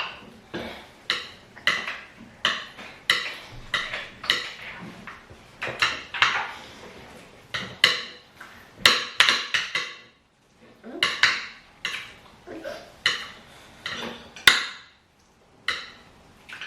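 Spoons clinking and scraping against plates, over and over, as people eat rice and stew.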